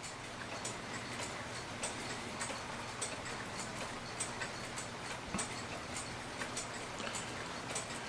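Mechanical clock ticking steadily, a little under two ticks a second, with one soft knock about five seconds in.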